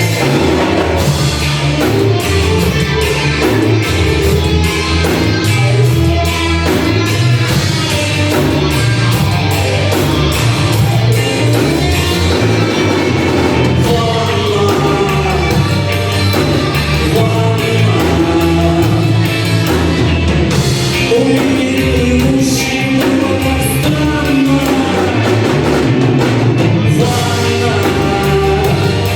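Rock band playing live, with drum kit, bass and guitars.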